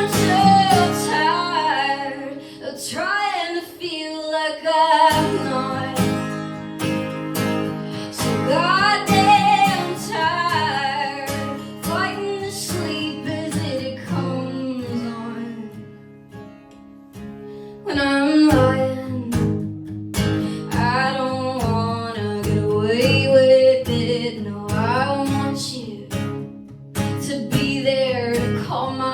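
A woman singing a slow song to her own acoustic guitar, live. The guitar drops back for a few seconds past the middle and comes back in strongly.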